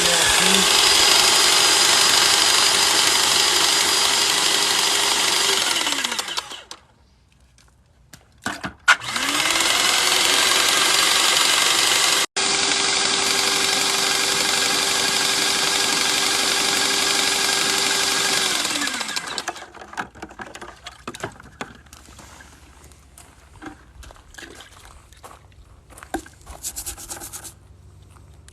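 Airless paint sprayer pump running with a steady motor whine and loud hiss as it is flushed with water. It shuts off about six seconds in, the whine dropping as the motor winds down, starts again about nine seconds in and runs to about nineteen seconds before winding down again; light clicks and rubbing follow.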